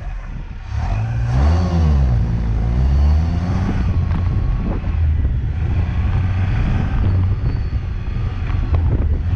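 Liège SS sports car's engine running under way: the engine pitch falls and then climbs again about a second in, then carries on steadily with small rises and falls.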